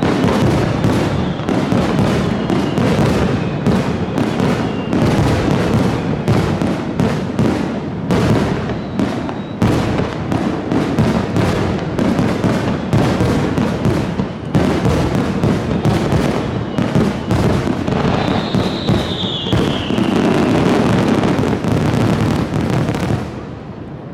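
Fireworks display: aerial shells bursting in rapid, overlapping succession with dense crackling, loud and continuous. A falling whistle comes about three-quarters of the way through, and the barrage dies down just before the end.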